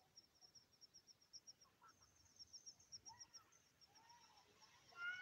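Near silence with a faint, high insect chirping at an even beat of about seven or eight pulses a second. Faint bird calls come in the second half, and a louder animal call starts right at the end.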